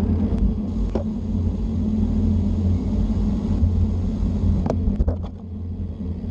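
Car engine running at a steady speed with a low drone, with a few sharp clicks about five seconds in.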